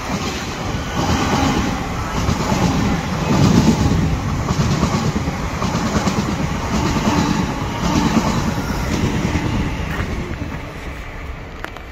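A train passing along the track, its wheels beating over the rails about once a second; it grows loudest about three to four seconds in and fades toward the end.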